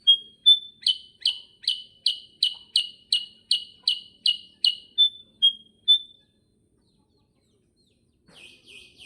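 Kutilang sutra (a bulbul) singing its rolling song: a fast run of repeated high whistled notes, about three a second, that ends about six seconds in with a few lighter single notes. After a pause, a fainter run of notes starts near the end.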